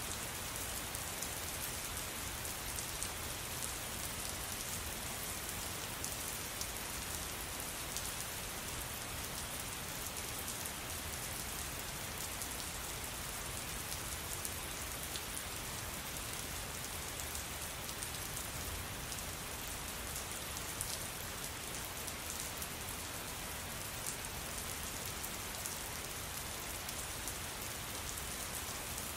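Steady rain falling: an even hiss of many drops with fine ticks throughout, no thunder.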